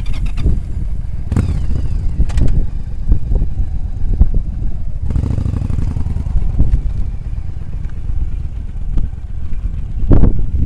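Yamaha Drag Star 1100's air-cooled V-twin engine running at low speed through slow turns, its sound rising and falling as the bike moves. Wind buffets the microphone throughout.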